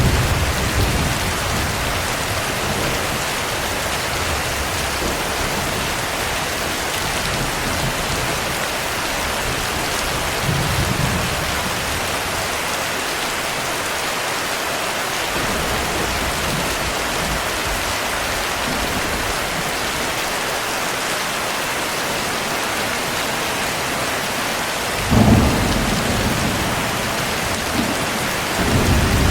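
Steady heavy rain, with low rumbles of thunder rolling in now and then; the loudest rumble comes near the end.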